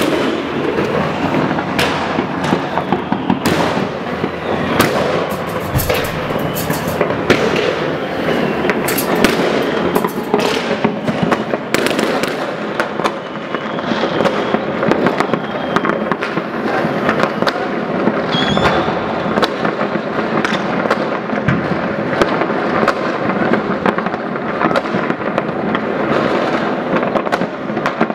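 Dense New Year's Eve fireworks and firecrackers going off all around, an almost unbroken crackle of bangs many times a second. A couple of short whistles come through around the middle.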